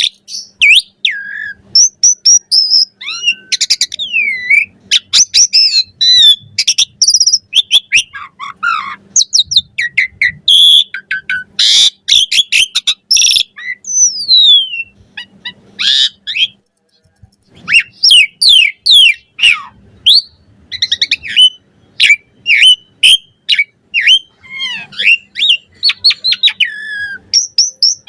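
Asian pied starling (jalak suren) singing a long, varied run of whistles, rising and falling slurred notes, chirps and sharp clicks, in quick bursts with short pauses between them.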